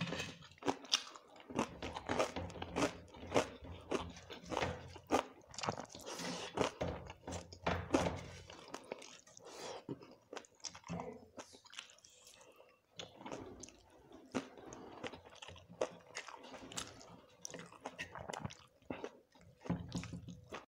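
Close-miked chewing and crunching of a rice meal with fried dry fish and fried vegetables, a dense run of quick, irregular mouth clicks and crunches that eases off for a few seconds midway.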